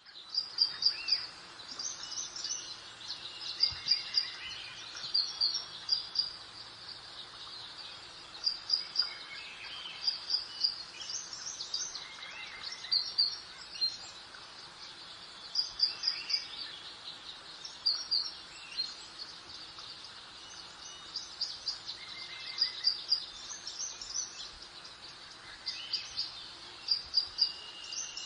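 Garden birds singing: bright, high chirping phrases of a few quick notes, repeated every second or two, over a soft steady hiss of background ambience.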